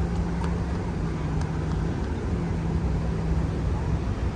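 Steady low engine rumble with a droning hum that drops out briefly about two seconds in.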